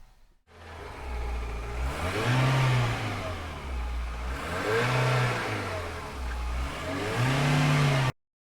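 Seat Ibiza car engine running and revved three times, each rev rising and falling in pitch. The sound cuts off abruptly near the end.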